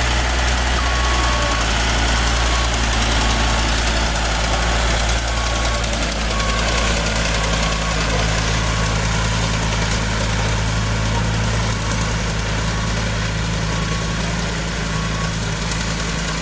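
Heavy diesel engine idling steadily, with a short high beep repeating about once a second, like a reversing alarm.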